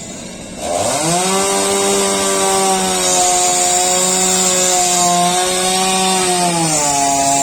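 Two-stroke chainsaw revved up sharply about a second in, then held at high, steady revs while cutting through the fallen tree; the revs drop near the end.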